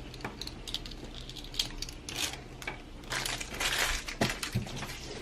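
Plastic packaging crinkling and rustling as a small wrapper is handled and opened, with a few light clicks of small plastic pieces; the rustling is loudest near the middle.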